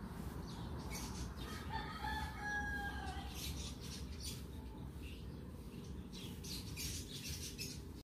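A bird's single drawn-out call about two seconds in, lasting under two seconds, heard over a steady low background rumble.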